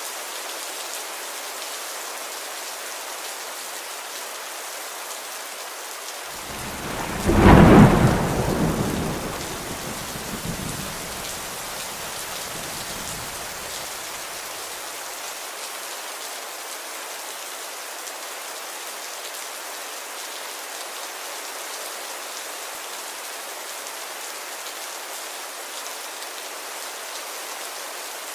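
Steady rain falling, with a loud clap of thunder about a quarter of the way in that rumbles away over the next several seconds.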